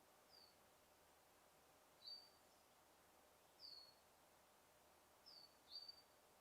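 A bird giving short, high chirps that slide downward in pitch, five in all, the last two close together, over a faint steady hiss of background ambience.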